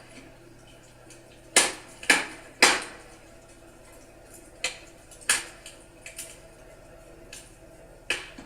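Burning firewood crackling: sharp pops and snaps over a faint steady background. Three loud pops come about half a second apart around two seconds in, then scattered smaller ones, with another sharp pop near the end.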